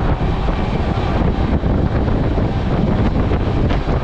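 Indian Railways express train running at speed, heard at an open coach window: a steady, loud rumble of wheels on rails with wind buffeting the microphone.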